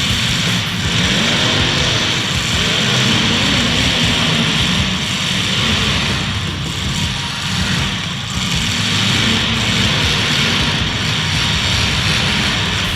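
Several demolition derby cars' engines running loudly together, their pitch rising and falling as they rev.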